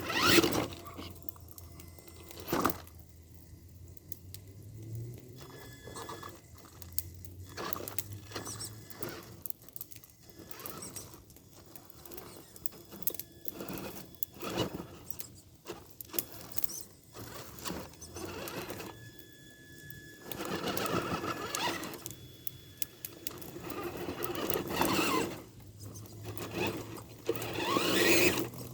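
Electric RC monster truck crawling: its motor and gearbox whine in short spurts, rising in pitch near the end, while the tyres scrape and click over the ground.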